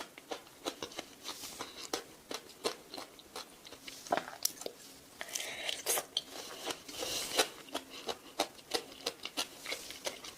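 Close-up biting and chewing of mangosteen fruit: irregular wet clicks and small crunches.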